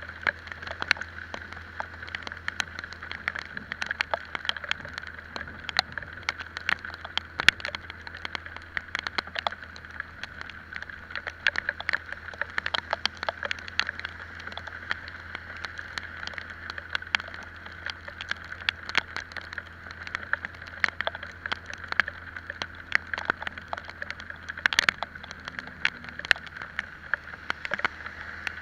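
Rain striking close to the microphone in frequent sharp ticks, over a steady hiss and the low, even running of an Italika Vitalia 125 scooter's single-cylinder engine on the move.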